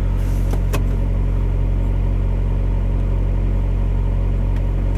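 2005 Volkswagen Passat TDI's four-cylinder turbodiesel engine idling steadily after a cold start, running to charge a flat battery.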